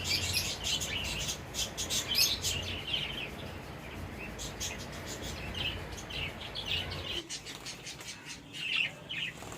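A flock of finches chirping with many rapid, short, high calls, busiest in the first few seconds. Under the birds is a low steady background hum that stops about seven seconds in.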